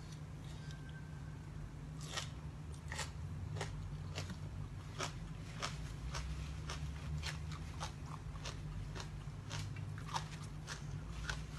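A person chewing crunchy food close to the microphone: a steady run of crisp crunches, a little under two a second, over a low steady hum.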